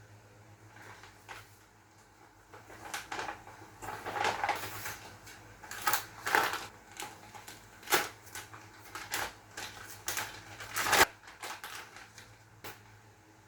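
Irregular knocks, clicks and rustling of objects being handled, over a low steady hum. The knocks come in uneven clusters, and the loudest is near the end.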